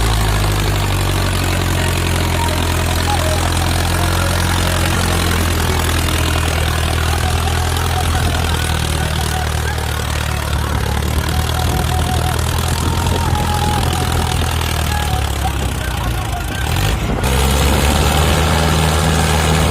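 Heavy diesel engine running steadily, a tractor or backhoe working to free a tractor stuck in mud. Near the end the engine note changes abruptly.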